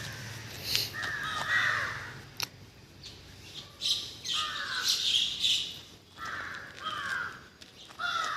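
Crows cawing, harsh calls in four or five bouts, with higher bird chirps in between.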